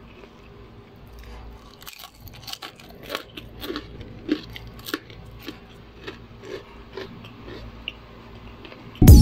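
Crunching of crispy battered fried calamari as it is bitten and chewed: an irregular run of short, crisp crunches, several a second. Loud electronic music cuts in abruptly at the very end.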